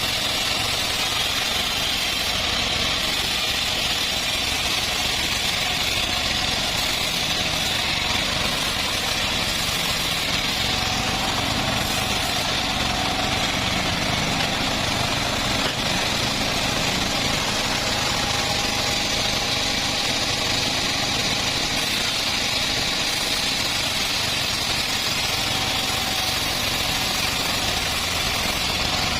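Homemade bandsaw sawmill running steadily: a constant engine drone with an even high hiss above it, unchanging throughout.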